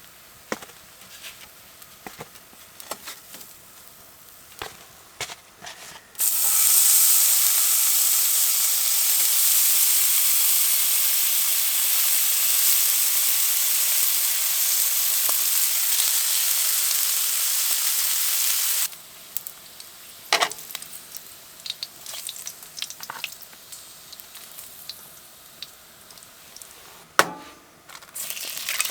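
Food sizzling in a hot pan: a loud, steady sizzle that starts suddenly about six seconds in and cuts off suddenly about twelve seconds later. Light clicks and knocks of cookware come before and after it, and the sizzle starts again at the very end.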